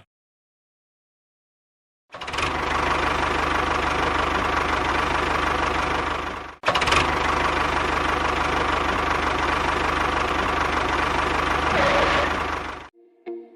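An engine running steadily with a fast low pulsing. It starts about two seconds in, cuts out for a moment about six and a half seconds in, then runs on until it stops near the end.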